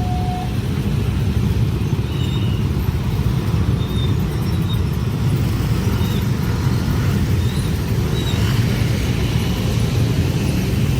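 Train passing over a level crossing: a steady, unbroken rumble of carriages rolling on the rails.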